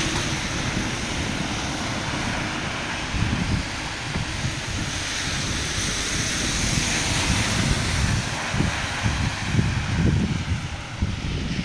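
Wind buffeting the microphone, a gusty rumble over a steady hiss of rain and wet street that swells a little midway.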